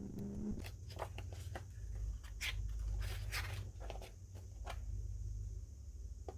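Unboxing handling sounds: short clicks, taps and paper or plastic rustles as items are handled, over a low steady rumble. A steady hum stops about half a second in.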